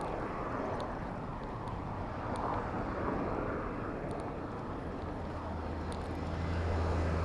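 City street traffic heard from a bicycle: a steady rush of road noise, with a motor vehicle's low engine drone coming up about five seconds in and becoming the loudest sound near the end.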